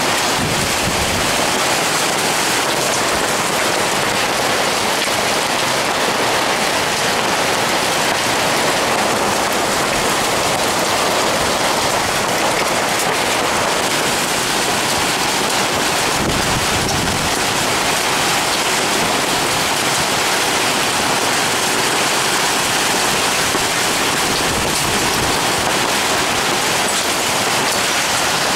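Heavy storm rain pouring down steadily, a dense even hiss with no let-up.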